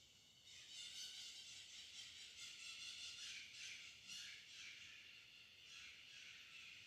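Faint, high-pitched chattering of birds, a busy jumble of quick calls that swells about half a second in.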